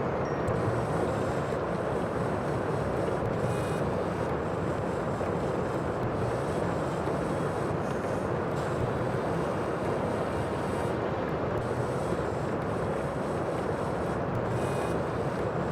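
Steady rushing sea ambience: dense water and wind noise at an even level, with no separate wave breaks standing out.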